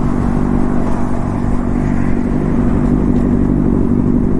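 Motorcycle engine running at a steady cruising speed, with strong gusting wind rushing over the helmet microphone.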